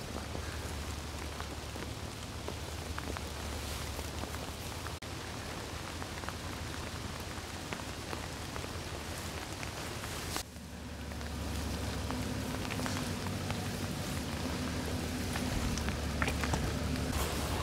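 Rain falling steadily, with many small drop hits, over a steady low hum. About ten seconds in the sound dips briefly, then a low tone joins the hum.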